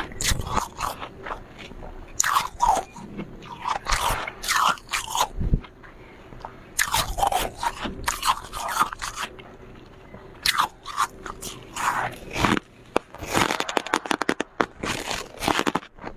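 Soft, powdery freezer frost being bitten and chewed: crisp crunches in quick clusters, separated by short pauses.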